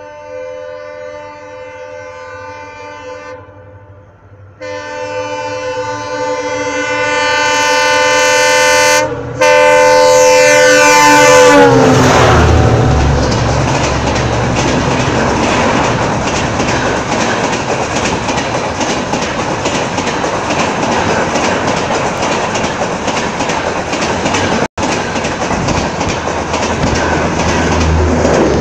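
Indian locomotive horn sounding a short blast and then a long, louder one as the train approaches; the horn's pitch drops as the engine passes, followed by the steady rumble and clatter of the coaches going by at speed.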